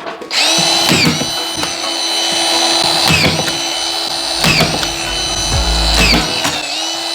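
Power drill driving screws, its motor whine steady between dips in pitch about five times as each screw seats or the trigger eases off.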